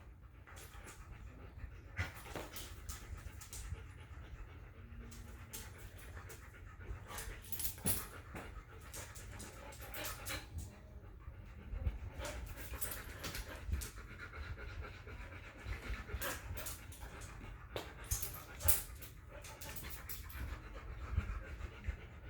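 Dogs playing, panting steadily, with many irregular short clicks and scuffling knocks throughout.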